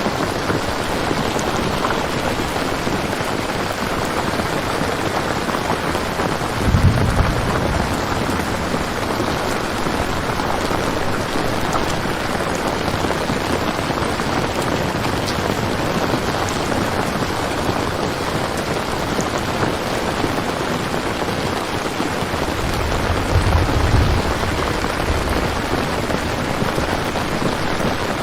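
Steady rain falling, with two low rolls of thunder, one about seven seconds in and another about 23 seconds in.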